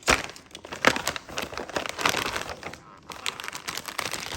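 Plastic packaging of an instant rabokki kit crinkling and crackling as it is handled and opened, in a run of sharp crackles with a short pause about three seconds in.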